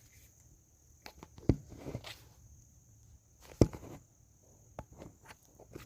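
Dry brush and branches rustling and snapping, with two loud sharp knocks about a second and a half in and again two seconds later, over a steady high insect drone.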